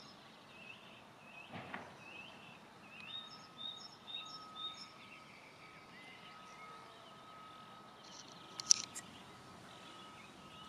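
Small birds singing: a short phrase of high chirps repeated several times, fading out after about five seconds. A single sharp click about eight and a half seconds in is the loudest sound.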